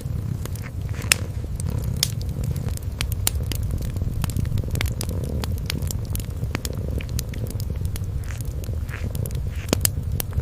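Kitten purring, a low steady rumble, under a wood fire's scattered crackles and pops.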